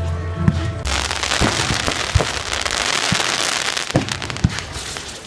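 Fireworks going off: a dense crackling starts about a second in, with several separate sharp bangs scattered through it.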